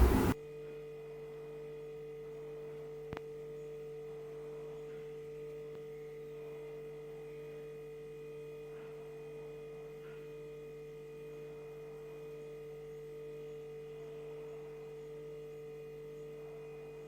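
A steady low electrical hum made of several held tones. A burst of noise cuts off abruptly just as it begins, and there is a single click about three seconds in.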